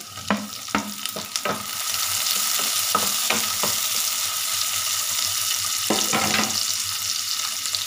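Chopped tomatoes sizzling in hot oil with browned onions in a frying pan as they are stirred. There are a few sharp knocks in the first two seconds, then the sizzle swells and holds steady.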